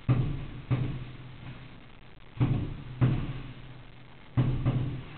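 Aerial fireworks exploding in the sky: about six bangs, loosely in pairs, each trailing off in an echo over about half a second.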